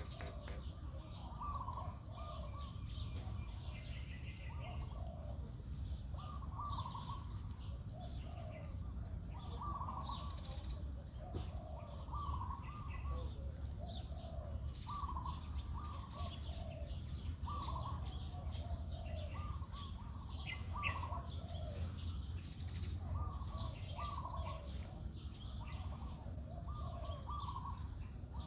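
Songbirds: one calls a short two-note phrase, stepping down in pitch, over and over every second or two, while others chirp higher. A steady low rumble lies underneath.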